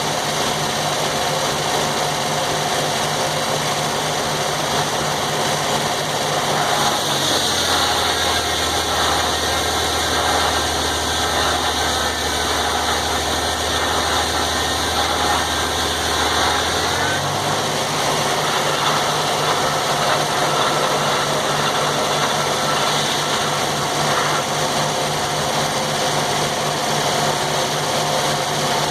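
Circular sawmill with a 48-inch blade running steadily. About seven seconds in, the engine's pitch drops under load and a higher cutting noise comes up as the blade saws through a log. About ten seconds later the engine picks back up to its running speed.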